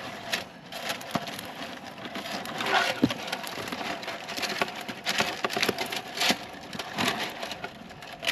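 Irregular crackly knocks, scrapes and rustling from handling freshly caught fish.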